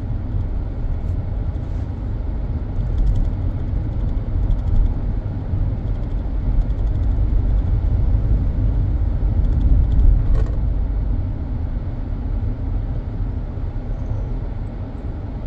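A moving car's steady low rumble of engine and tyre road noise.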